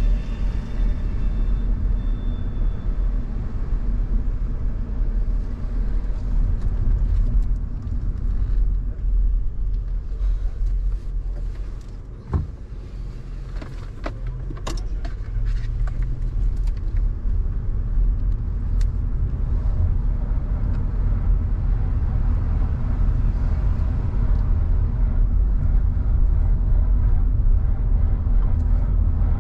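A car being driven on the road, with engine and road rumble throughout. It goes quieter for a moment about halfway through, with a few sharp clicks, then returns to a steady rumble.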